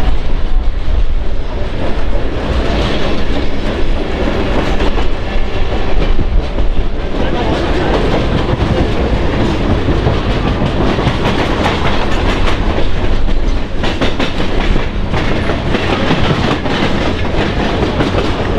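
Passenger train running along the track: a steady rumble of rolling wheels, with clicks of the wheels over rail joints coming more often near the end.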